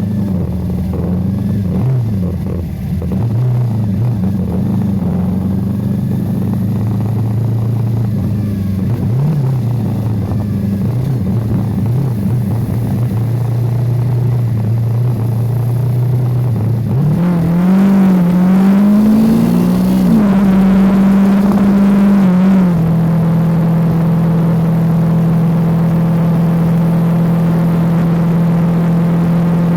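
Motorcycle engine running while riding, its pitch wandering up and down with speed, then climbing in a few sweeps and holding one steady pitch for the last several seconds.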